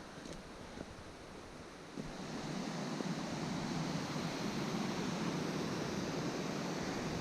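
A river rushing over rocks, a steady noise that grows louder about two seconds in. Footsteps on the path tick lightly in the first two seconds.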